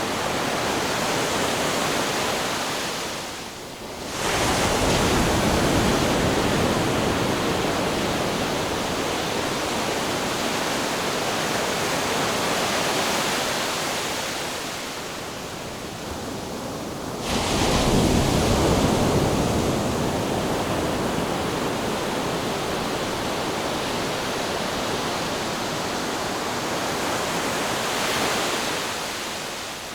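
Ocean surf washing continuously, with a wave breaking suddenly about four seconds in and another about seventeen seconds in, each swell of noise then slowly subsiding.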